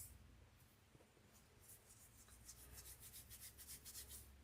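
Faint, quick rubbing strokes of hands rolling a small piece of air-dry foam clay into a thin snake, starting about two seconds in.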